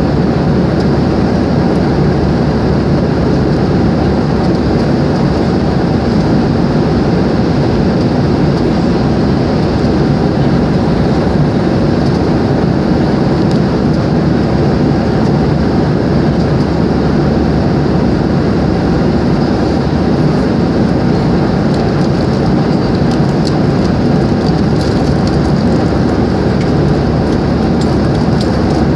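Steady, loud engine and airflow noise of an airliner, heard from inside the cabin.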